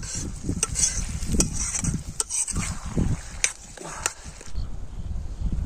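A spoon stirring and scraping frying onions in a cooking pot, with several sharp clinks against the pot over a low rumble; the clinks stop about four and a half seconds in.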